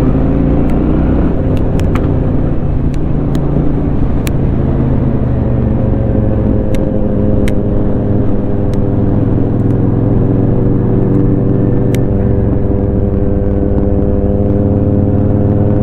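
Honda Shadow 750's V-twin engine running at a steady cruise through an aftermarket Rinehart exhaust, pitch rising slightly at first and then holding nearly even.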